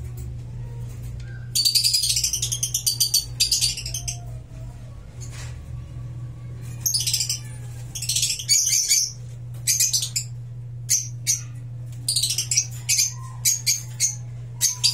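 Lovebirds chattering in runs of rapid, shrill calls with short pauses between them, over a steady low hum.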